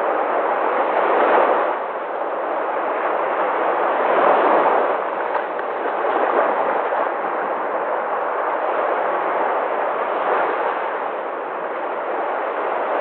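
Sea waves: a continuous rush of surf that swells as waves break, about a second in, around four seconds in and again near ten seconds.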